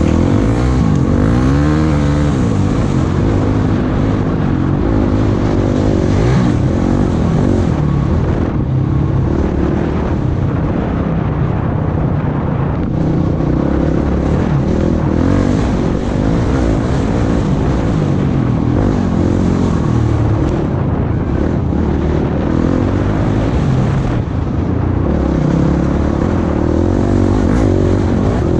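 Off-road vehicle engine running continuously under load, its pitch rising and falling again and again as the throttle is worked.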